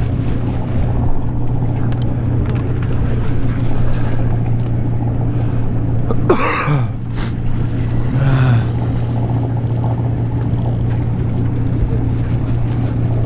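Boat engine running with a steady low drone, under wind and water noise. Two brief, higher sounds stand out about halfway through.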